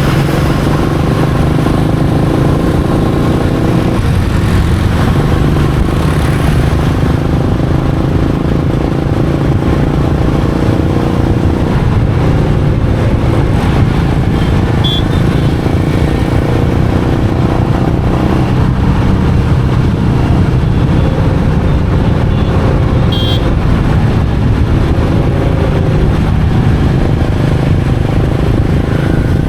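Royal Enfield Meteor 350's single-cylinder engine and exhaust running steadily at cruising pace, with road and traffic noise around it.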